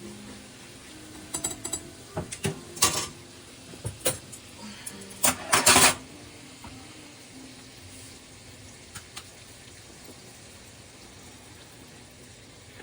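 Kitchen utensils and dishes clattering and knocking, a dozen or so sharp hits in the first half, some with a short metallic ring, then only a faint steady background.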